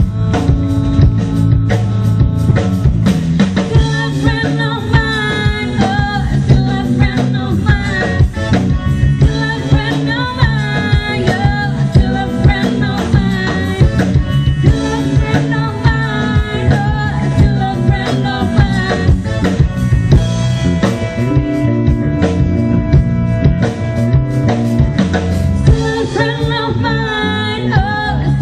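Live rock band playing a song, with a drum kit keeping a steady beat under electric guitar, bass and keyboard, and a lead vocal singing over it.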